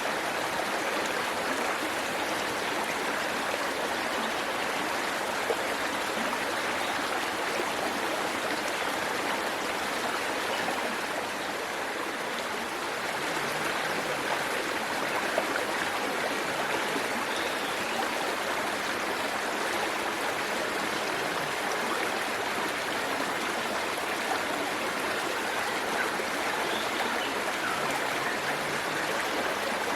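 Waterfall and its stream rushing steadily, a continuous even splash of falling and running water.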